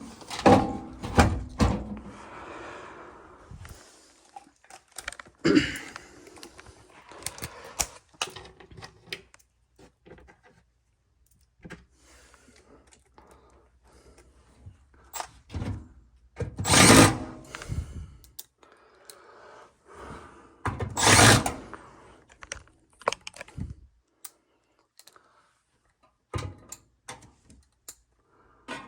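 Irregular knocks, clunks and clatter of tools and parts being handled during work on an air handler, with two longer, louder bursts of noise in the second half.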